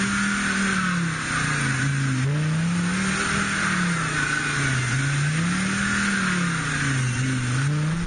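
Land Rover Defender engine revving up and down in slow surges, about three rises and falls, as it labours through deep mud.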